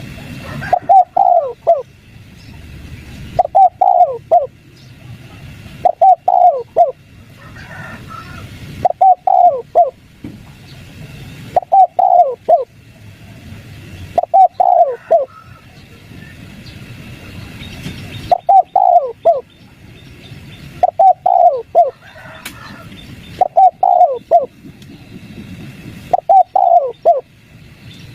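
Spotted dove cooing, the 'kuk 3' song: a short phrase of three or four deep coos repeated about every two and a half seconds. A few faint chirps from another bird come in between.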